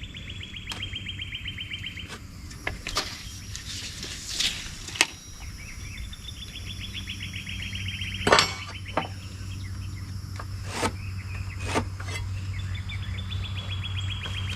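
A songbird's rapid trill, about two seconds long and dropping slightly in pitch, repeats three times. Scattered sharp knocks and clicks come in between, over a steady low hum.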